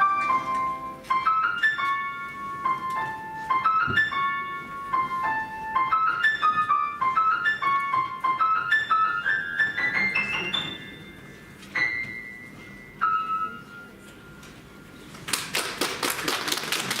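Solo piano playing a light melody in quick climbing phrases, ending with two single notes about twelve and thirteen seconds in. Applause starts about fifteen seconds in.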